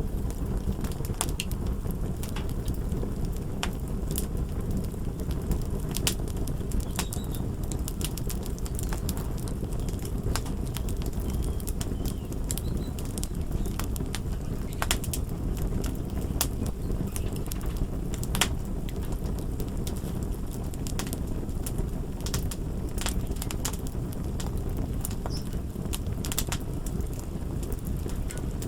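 Fire crackling: irregular sharp pops and snaps, a few each second, over a steady low rumble.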